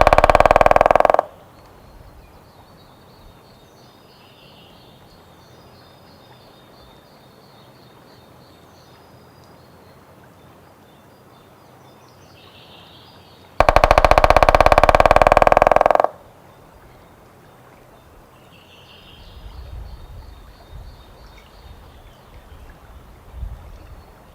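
White-backed woodpecker drumming: two long, rapid drum rolls on wood, the first ending about a second in and the second starting about 13 seconds later and lasting about two and a half seconds, each speeding up toward the end.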